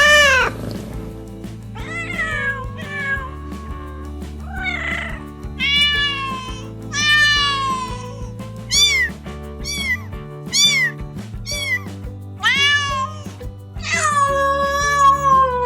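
Domestic cats meowing again and again, about a dozen separate meows: some short and high, with a long drawn-out meow near the end. Background music with steady low held notes plays underneath.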